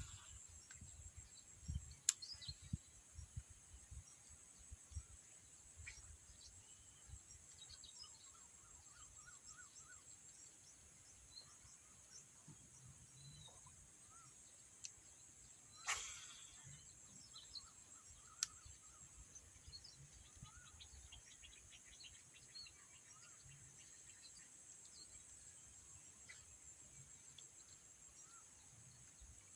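Near silence outdoors: a faint, steady high insect drone with scattered faint bird chirps. A few sharp clicks, one about two seconds in and another near the middle.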